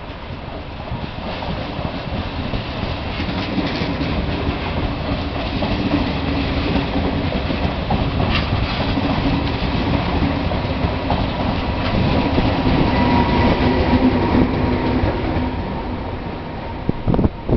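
Regional passenger train of MDVE coaches pulling out of the station and running past, with wheels clattering over rail joints and a steady running hum. It grows louder over the first half, stays loud, then eases off, with a few sharp knocks near the end.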